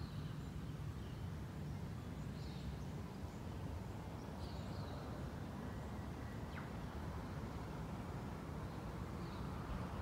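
Bushland ambience: a few short, high bird chirps a couple of seconds apart over a steady low background rumble.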